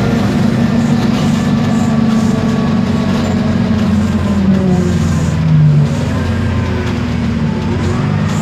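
Isobus City 1200 bus under way: its MAN D0836 six-cylinder diesel running steadily, with gear whine from the ZF automatic gearbox and differential that rises in pitch near the end.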